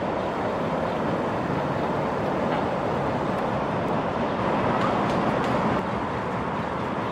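Steady rolling noise of a train under way, heard from aboard the car: an even rumble and rush with no clear engine note, swelling slightly about four and a half seconds in.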